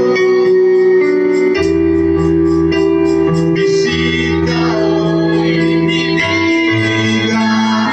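Worship music played on an electric keyboard: held chords over low bass notes, changing chord about a second and a half in and again about six seconds in, with a light steady tick of a beat.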